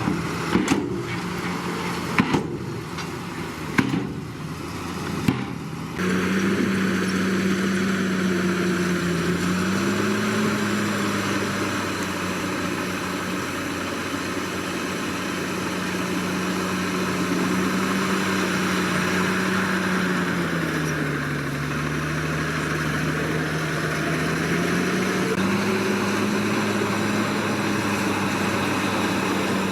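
Heavy diesel engine of a Komatsu D61PX bulldozer. It starts with a few sharp metallic knocks about a second and a half apart. About six seconds in, a steady engine drone comes in, and its pitch sags under load twice, briefly and then for several seconds, before it recovers.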